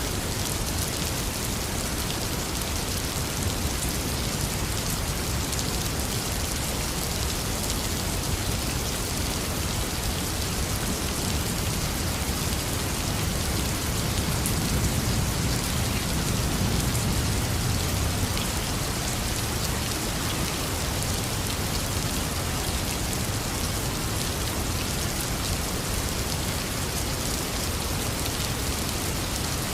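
Heavy rain pouring steadily with an even hiss. A low rumble of distant thunder swells and fades about halfway through.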